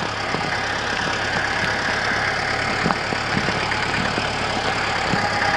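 Large tractor engine running steadily while the tractor works snow into a sledding trail.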